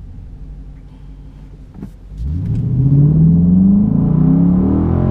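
5.7-litre Hemi V8 with its active exhaust valves open in sport mode, heard from inside the cabin. It runs low and quiet at first, then about two seconds in the driver goes to full throttle and the engine note jumps in loudness and climbs steadily in pitch with a deep bellow.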